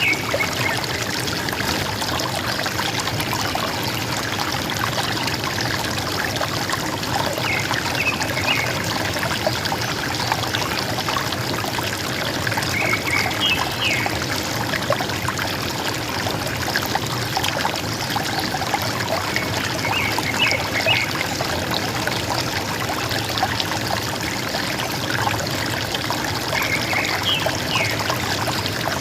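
River water gurgling and trickling steadily. A forest bird gives a short call of a few quick chirps, repeated about every six or seven seconds.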